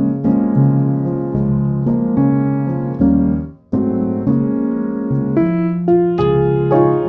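Solo piano music: notes and chords struck one after another at a gentle pace, with a brief break about halfway through.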